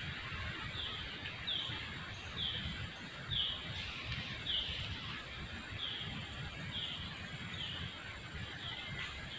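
A bird calling a short, high note that slides downward, repeated about ten times at an even pace, roughly once a second, over a steady rushing background noise.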